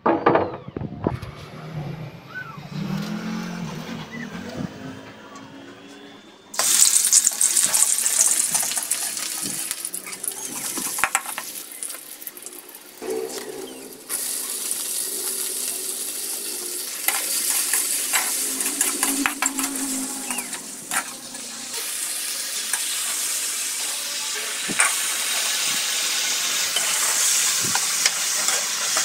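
Food frying in hot oil in an aluminium wok: a sizzle starts suddenly about six seconds in and carries on, with a brief drop partway through. Chopped shallot and chilli fry first, then bean sprouts and green peas are stirred with a metal spatula that clicks against the wok.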